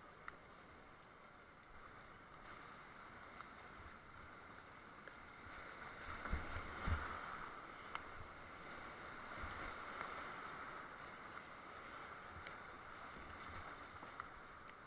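Rushing whitewater of a glacier creek, a steady hiss, with a few low thumps a little past the middle.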